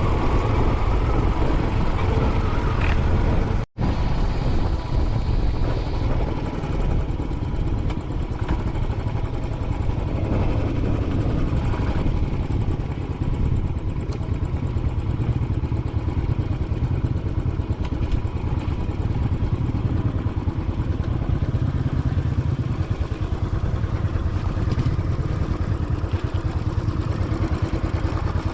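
Royal Enfield Classic 500's single-cylinder engine running steadily as the motorcycle is ridden along. The sound drops out for an instant just under four seconds in.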